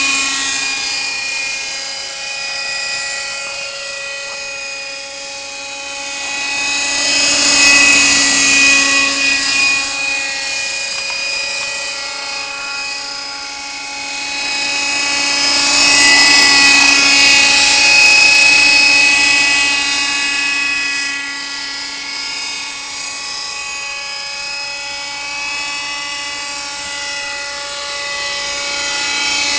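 Kyosho Nexas 30 nitro radio-control helicopter in flight, its glow-fuel two-stroke engine and rotors giving a steady, high-pitched whine. It swells louder twice as the helicopter passes closer, then fades again, with small shifts in pitch.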